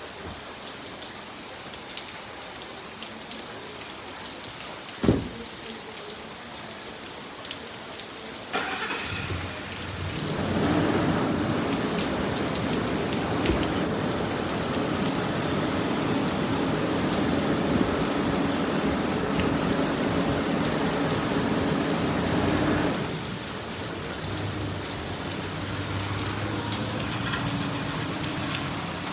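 Heavy rain falling steadily, with a single sharp knock about five seconds in. From about nine seconds in the rain noise swells louder and fuller for some fourteen seconds, then eases back.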